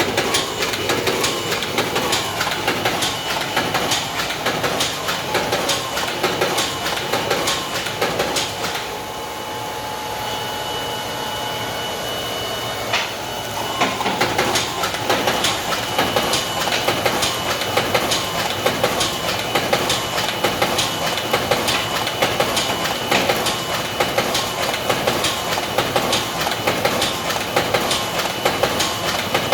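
DigiFold Pro-XL creasing and folding machine running, clattering in a fast, steady rhythm as it feeds sheets through. About nine seconds in the clatter stops for some four seconds, leaving a steady hum with a faint held tone, then it starts again.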